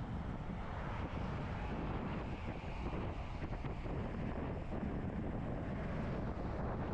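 Wind buffeting the microphone on a moving bicycle: a steady rushing noise, heaviest in the low end.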